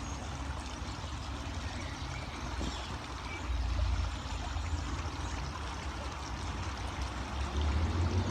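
Steady rushing of flowing river water, with a low rumble underneath that swells and fades.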